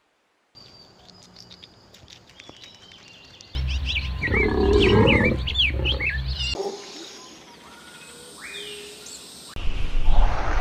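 A string of short animal-sound clips joined by abrupt cuts. First come faint chirps, then a loud stretch of high, bending chirping calls over a low rumble, then quieter rising calls, then a loud noisy stretch near the end.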